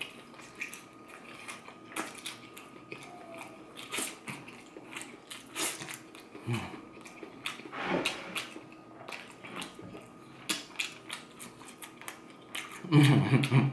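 Close-miked eating sounds: a person chewing and biting meat, with irregular wet smacks and clicks of the mouth and lips. A short low hum comes near the end.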